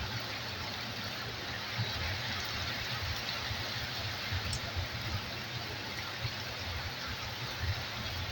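Heavy rain falling steadily, an even continuous hiss of rain pouring down.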